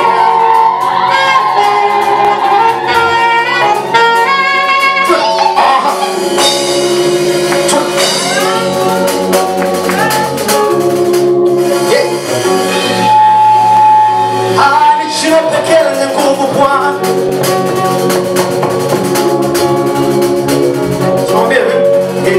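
Live gospel praise music: a band with keyboard and tambourine plays on, with voices singing and calling over it.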